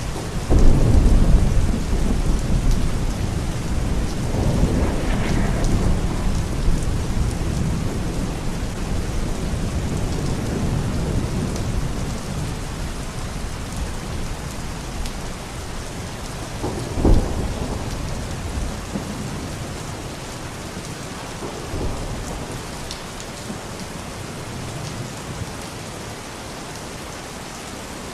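Steady rain falling with thunder: a loud roll of thunder starts about half a second in and rumbles on for several seconds, and a short, sharper thunderclap comes a little past halfway. The rumbling dies down toward the end.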